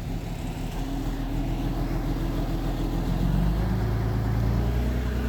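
Diesel engine of heavy earthmoving machinery running, growing louder over the first few seconds, its pitch shifting as it works.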